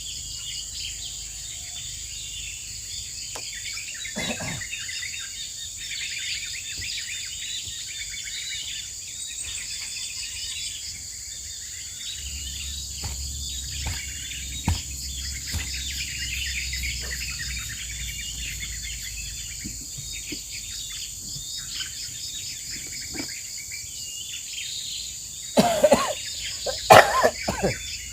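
Forest ambience: many birds chirping over a steady high buzz of insects, with scattered clicks. Near the end, a short cluster of a few louder sharp sounds stands out.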